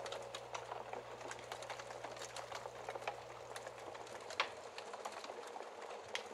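Wood fire crackling: many small, irregular pops and snaps, with one louder pop about two-thirds of the way through.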